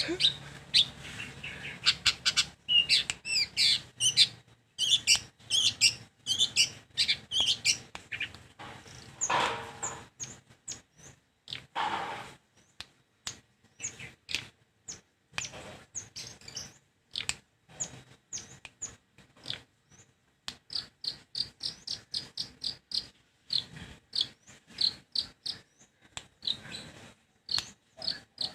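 Long-tailed shrike (cendet) singing a rapid chattering song of short, high chirps, with a couple of harsh rasping notes about ten and twelve seconds in.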